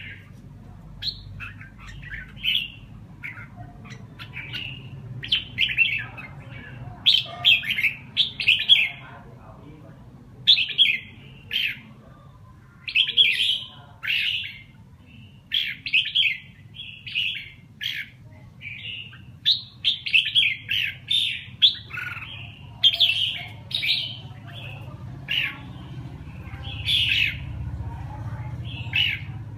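Birds chirping: short, sharp calls in quick clusters, one after another, over a low steady hum.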